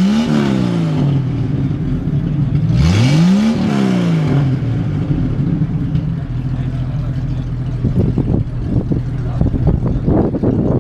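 1996 Jeep Cherokee's engine being revved hard for a rev battle: the pitch climbs and falls back twice, peaking right at the start and again about three and a half seconds in, then settles to a steady idle. From about eight seconds in, a patter of short sharp sounds runs over the idle.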